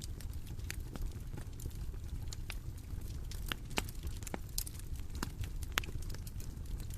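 Bonfire crackling: irregular sharp pops and snaps of burning wood over a low steady rumble of the flames.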